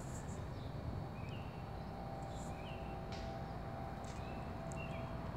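Faint short bird chirps, four or five spread over a few seconds, over a low steady background hum.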